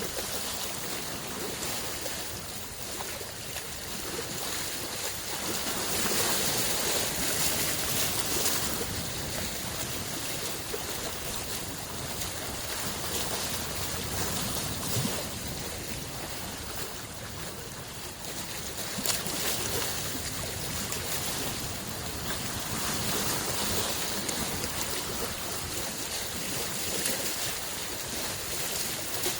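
Small lake waves washing against the shore in a steady wash of water that swells gently now and then.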